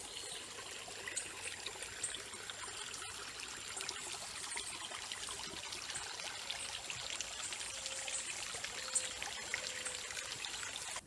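Running water, a steady trickling rush that cuts off suddenly at the end.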